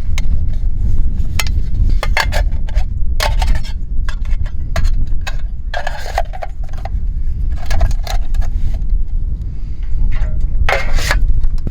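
Strong wind buffeting the microphone in a steady low rumble, with scattered scrapes, knocks and short metallic clinks of camping gear being handled.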